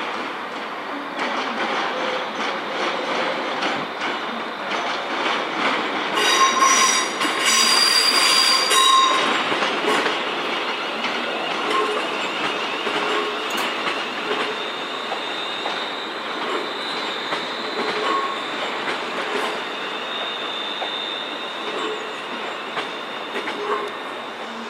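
Train moving through the station with its wheels squealing on the rails and clicking over the rail joints. The squeal is loudest and shrillest about six to nine seconds in, and a thinner high squeal holds through the second half.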